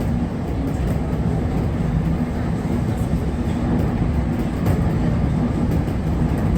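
JR Kyushu 811 series electric train running, a steady low rumble of wheels on rail heard from inside the front of the car.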